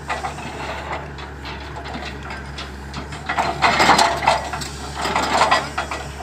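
Hydraulic excavator's diesel engine running steadily under irregular bursts of clattering and crunching as hard material is broken and moved, loudest about halfway through and again near the end.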